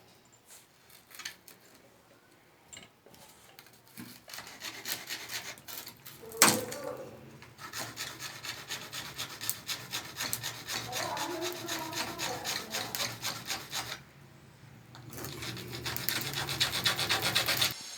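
Rhythmic rasping strokes of a hand tool working CPVC pipe, about four a second, in two long runs with a short break near the end. A single sharp knock comes about a third of the way in.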